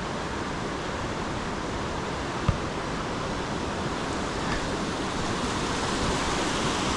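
Steady rush of fast-moving water from a small waterfall and rapids, growing slightly louder toward the end. A brief low thump about two and a half seconds in.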